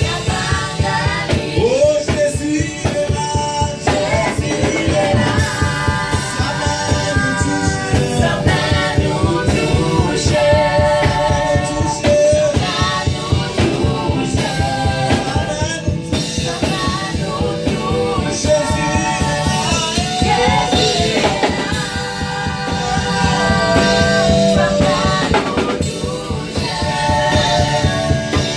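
Live worship music: a choir and band with drum kit playing a gospel song, with sung melody lines over a steady beat.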